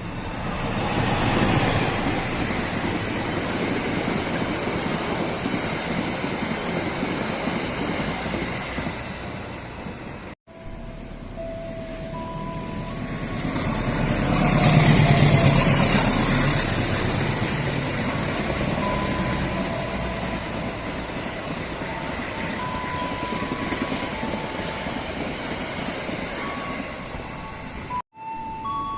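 Trains running past on the tracks, in two separate takes joined by a sudden cut about ten seconds in: first a steady rumble, then a second train that swells to its loudest a few seconds after the cut and fades. Short steady tones at changing pitches sound over the second pass.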